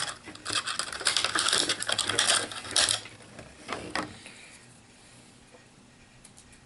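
Plastic packaging crinkling for about two and a half seconds while HeroClix miniatures are unpacked from a booster, then a couple of sharp clicks of hard plastic pieces being handled.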